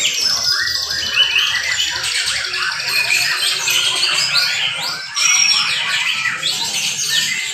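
Several young white-rumped shamas singing at the same time, a dense tangle of fast trills, whistles and chirps with no pause.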